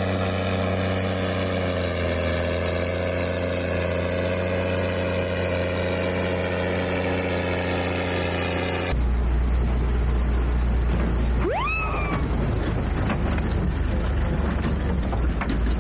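A motor vehicle's engine runs steadily for about nine seconds, its pitch shifting only slightly. It then gives way abruptly to a rougher, noisier rumble of engine and tyres, with one short rising whistle-like tone a few seconds later.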